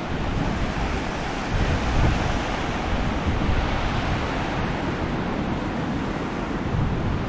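Surf washing onto a beach under strong wind, with gusts buffeting the microphone: a steady rushing noise over a heavy, uneven low rumble.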